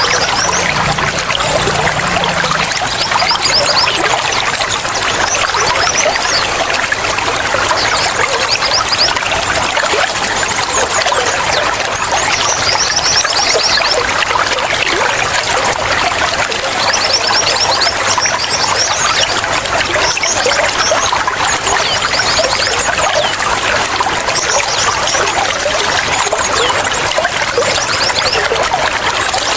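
Running water flowing and trickling steadily, with clusters of short, high, falling chirps recurring every few seconds over it.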